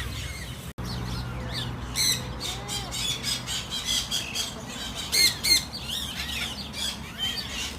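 Many parrots in an aviary squawking, with short harsh shrill calls in quick succession; the loudest pair comes about five seconds in.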